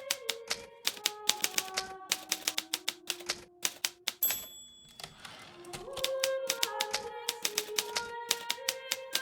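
Hermes Baby portable typewriter being typed on in quick runs of key strikes. About four seconds in, the typing stops for a single bell ring and a longer sweeping noise: the end-of-line bell and the carriage return. Then the key strikes resume.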